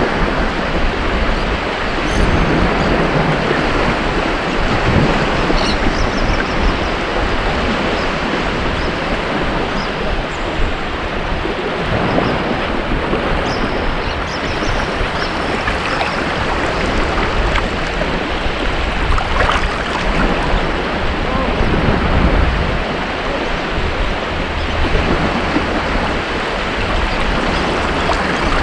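Ocean waves breaking and washing on a beach, a steady rush of surf that swells and eases every few seconds, with some wind on the microphone.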